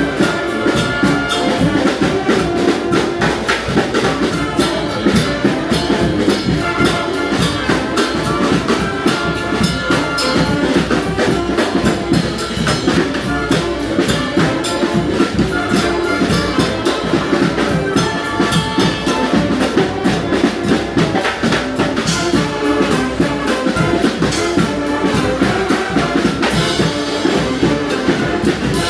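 Live street brass band playing, horns over a steady driving drum beat.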